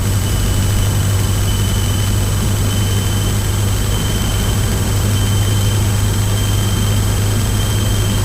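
Cabin noise of a Cessna 152 in flight: the four-cylinder piston engine and propeller give a steady low drone under a wash of airflow noise, with a thin steady high whine.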